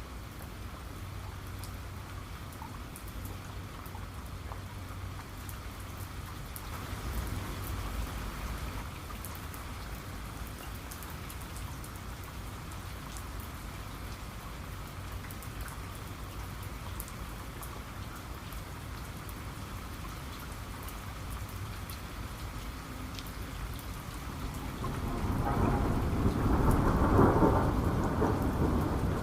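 Steady rain with scattered drop ticks, and thunder rolling over it. A low rumble swells about a quarter of the way in, and a louder, longer roll builds near the end.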